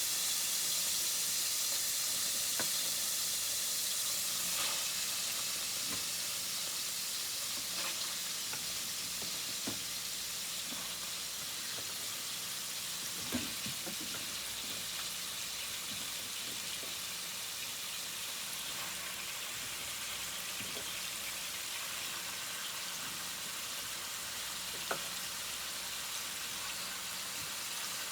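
Butter and vegetable oil sizzling steadily in a skillet as apples are dropped in, with a few light knocks along the way, the clearest about halfway through.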